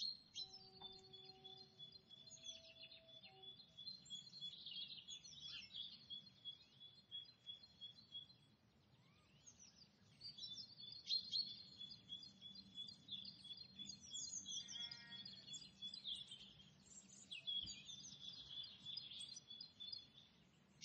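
Faint birdsong: many quick high chirps and trills over a steady high trilling line, easing off for a moment about eight seconds in.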